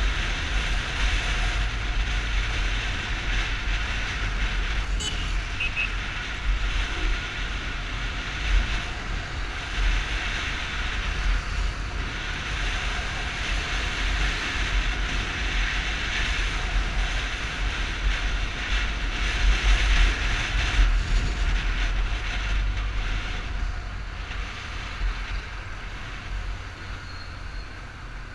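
Yamaha Fazer 250's single-cylinder engine running steadily while riding, under a dense rush of wind and road noise. It eases off somewhat near the end.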